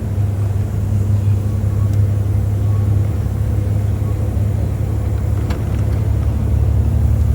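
Tour bus engine and road noise heard from inside the cabin: a loud, steady low rumble.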